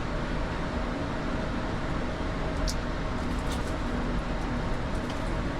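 Steady cockpit noise of an Airbus A220-300 with its Pratt & Whitney geared turbofans near idle before the takeoff roll: an even rumble and hiss with faint steady hums, and a couple of faint ticks about midway.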